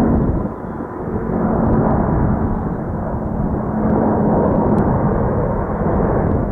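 Jet airliner engines running at takeoff power as the plane departs: a loud, steady rushing rumble that swells and eases slightly.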